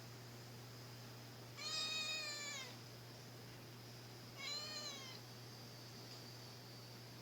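A domestic cat meowing twice: a longer meow about a second and a half in and a shorter one about four and a half seconds in, over a faint steady hum.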